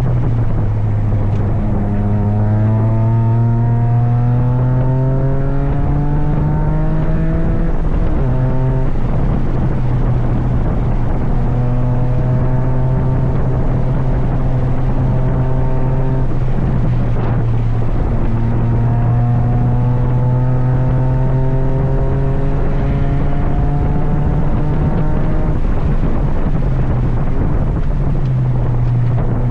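Toyota GR Yaris's turbocharged 1.6-litre three-cylinder engine under hard acceleration, the revs climbing in steps through the gears, then running at fairly steady revs for several seconds. About halfway through there is a short break before the pitch climbs again.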